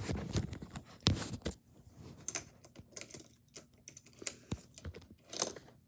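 Small toy cars and hard plastic being handled, a scatter of irregular light clicks and clacks, with a louder knock about a second in and again near the end.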